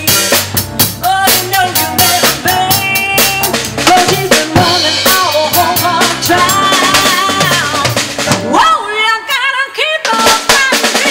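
Band music driven by a full drum kit, with bass and a wavering lead melody over it. About eight and a half seconds in, the drums and bass drop out for a moment, then come back.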